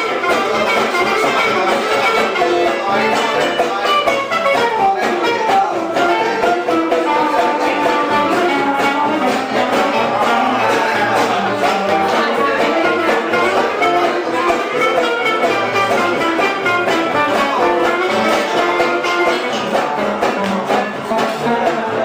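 A live band playing music continuously, with busy, shifting instrumental melody lines at a steady level.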